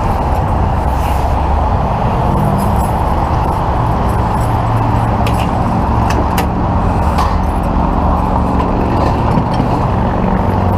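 A vehicle engine running steadily, with a low hum, over a wash of traffic-like noise. A few light metallic clinks fall in the middle.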